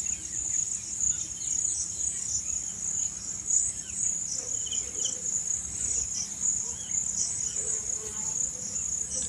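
Crickets chirping in a steady, high, shimmering trill throughout.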